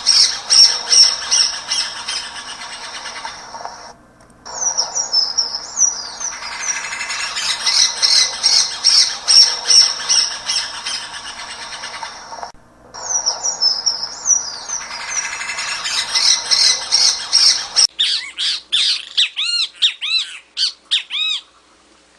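Songbird singing a rapid run of chirps and trills, the same passage repeating after short breaks. Near the end it cuts to a different bird giving a quick series of rising-and-falling whistled notes.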